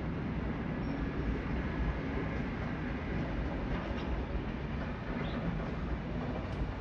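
Train running in a railway station, with a steady low rumble.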